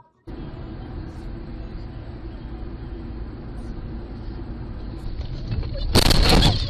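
Steady road and engine noise of a moving car. About six seconds in comes a loud, harsh burst lasting under a second, typical of a collision impact.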